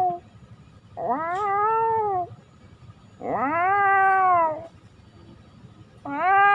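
Domestic cat meowing: three long, drawn-out meows about a second apart, each rising and then falling in pitch.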